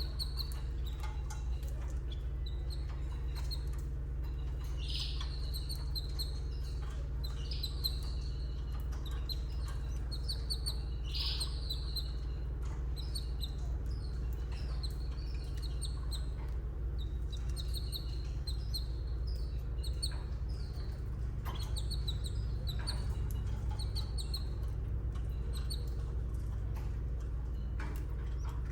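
Canaries chirping at a nest: short high chirps repeated throughout, some in quick runs, over a steady low hum.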